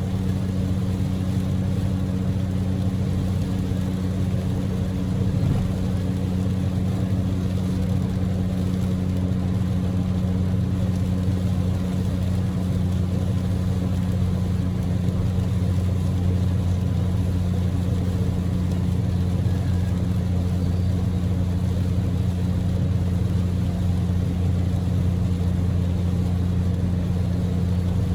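Steady engine and road drone inside the cabin of a Daihatsu Move (L150S), its 660 cc three-cylinder EF-VE engine cruising at an even pace, with a low steady hum. Under it runs the hiss of heavy rain and tyres on a wet road.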